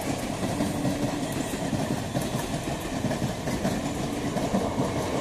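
EMU local train running through the station without stopping: a steady rumble with wheels clattering over the rail joints.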